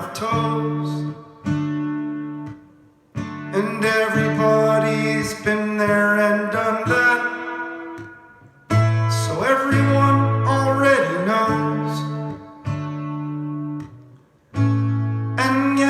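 Acoustic guitar played alone: strummed chords, each left to ring and fade away before the next is struck, several times over.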